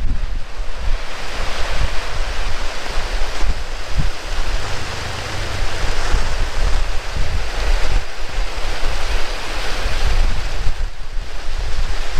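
Heavy rain falling in a dense, steady hiss, with strong wind buffeting the microphone in an uneven low rumble.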